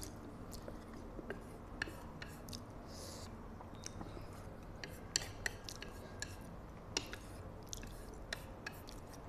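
Quiet chewing and mouth sounds of someone eating spicy instant noodles, close to the microphone. Scattered short, sharp clicks come from wooden chopsticks picking at a ceramic bowl.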